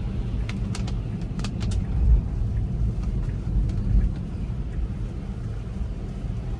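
Steady low road and tyre rumble heard inside a Tesla Model 3's cabin as it drives on a wet road, with two low thumps about two and four seconds in. A few light clicks come near the start.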